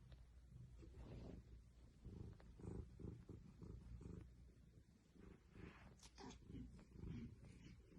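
Faint domestic cat purring, a low uneven rumble, with a few soft rustles about six seconds in.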